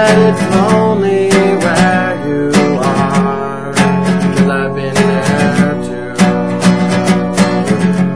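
Acoustic guitar strummed in a steady rhythm, playing a song's chord accompaniment.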